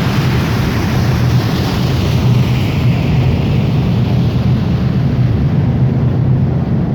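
Passenger lake boat under way: steady low engine drone, with wind rushing over the microphone and water noise.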